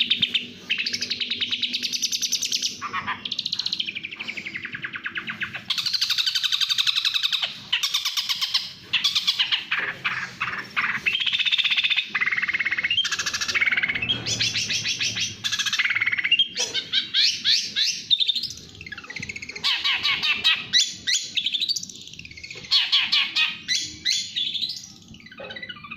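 Long-tailed shrike (cendet) singing a fast, continuous song of rapid trills and chattering phrases, broken by a few brief pauses.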